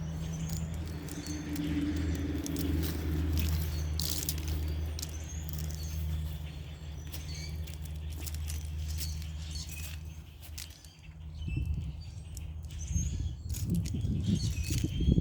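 Small birds chirping in short high calls over a steady low hum that stops about eleven seconds in. It is followed by irregular low rustling and knocks near the end.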